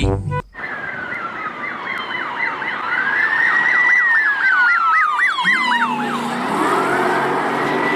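Police siren: a slow rising and falling wail overlapped with a fast yelp of about four sweeps a second. A low steady hum joins about five and a half seconds in.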